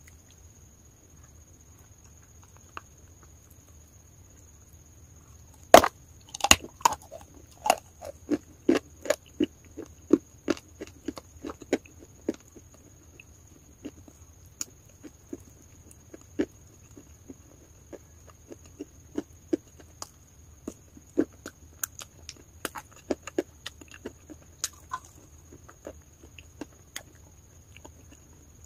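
Close-miked mouth sounds of someone eating wet chalk paste: short wet smacks and chews, about two a second at first and sparser later. They start about six seconds in with one sharp click, the loudest sound.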